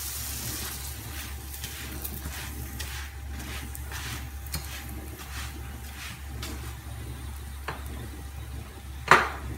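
Paratha frying on a hot flat tawa: a steady sizzle, with the faint scrape of a metal spatula moving it about the griddle, about twice a second. A single sharp knock near the end.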